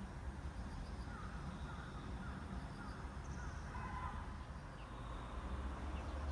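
Crows cawing: a series of short harsh calls, loudest about four seconds in, over a steady low rumble.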